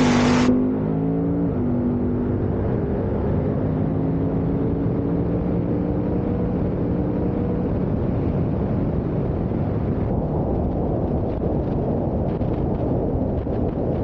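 Dodge Challenger SRT Demon's supercharged Hemi V8 running at speed down the drag strip, under heavy wind rush on the hood-mounted camera. The engine note drops once about a second and a half in, then climbs slowly.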